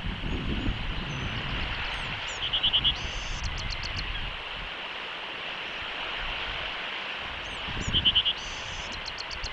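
Steady wind and surf hiss with wind rumble on the microphone. Twice, about five seconds apart, a short high bird call sounds: a quick run of notes, then a higher, buzzier part.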